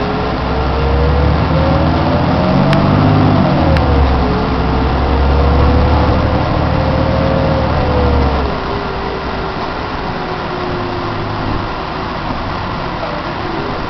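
Heuliez GX 427 articulated city bus accelerating. Its drivetrain whine climbs in pitch, drops once at a gear change about three seconds in, and climbs again. Around eight seconds in the engine comes off load and the whine slowly falls. This is still the bus's normal running sound, before the abnormal noise sets in.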